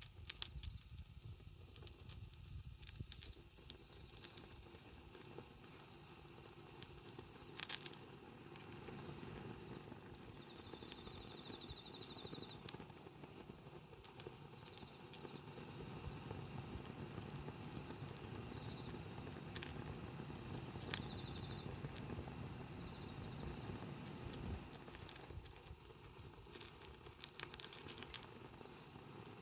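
Wood campfire burning steadily, with soft crackling and a few sharp pops scattered through.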